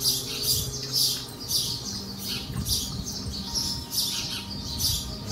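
Small birds chirping over and over, about two quick high chirps a second, with a faint steady low hum beneath.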